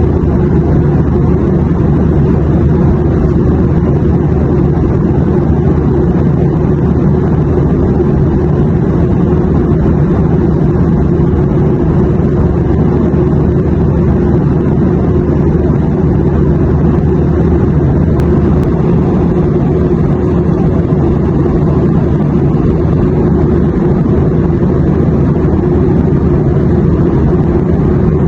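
Steady airliner cabin noise: a constant low engine drone and airflow rumble, even and unchanging, strongest in the low range.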